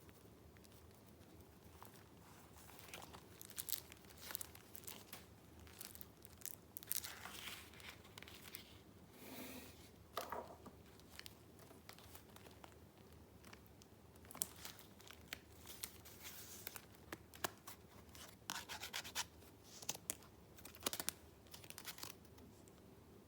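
Paper rustling and crinkling as sheets and paper pieces of a handmade junk-journal file are handled, with irregular crisp rubs and clicks.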